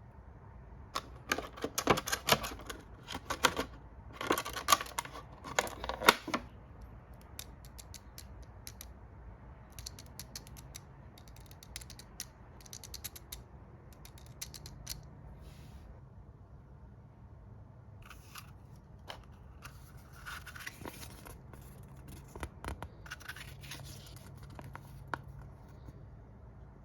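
Action-figure packaging and plastic toy parts being handled: a dense run of crinkling and clicking plastic over the first several seconds, then scattered clicks and scrapes.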